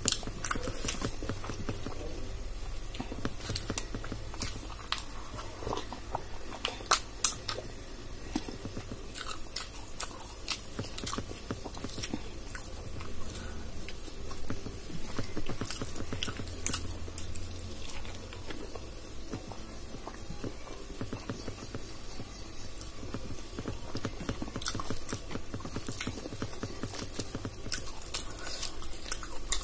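Someone chewing and eating dal and rice by hand: steady chewing and wet mouth clicks, with fingers squishing and scraping rice on a steel plate. Two sharper clicks stand out about seven seconds in.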